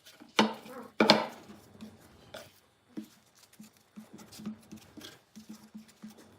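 Two sharp knocks about half a second and a second in, then a run of light taps and clicks: tools and wood being handled and set down in a woodturning workshop.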